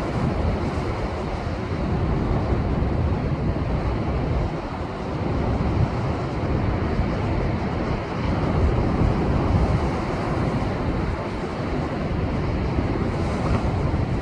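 Heavy post-typhoon surf surging and breaking against shoreline rocks, a continuous deep wash of water that swells and ebbs, with wind buffeting the microphone.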